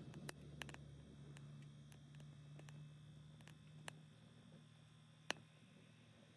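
Faint sparse snaps and crackles of a small wood fire in a Sierra stove, the sharpest about four and five seconds in, over a low steady hum that weakens about four seconds in.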